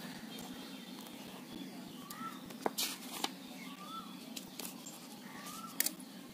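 A bird repeating a short whistled note that rises and falls, about once every two seconds. Sharp clicks and brief rustles of a paper sheet being handled come twice, about three seconds in and near the end.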